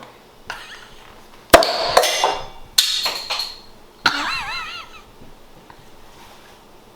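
A glass beer bottle being opened: a sharp knock, then scraping and fizzing, and a wavering metallic ringing about four seconds in.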